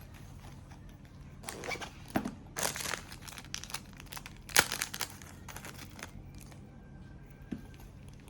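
Paper or plastic packaging being handled, crinkling and rustling in irregular bursts, the loudest a little past the middle, over a faint steady hum.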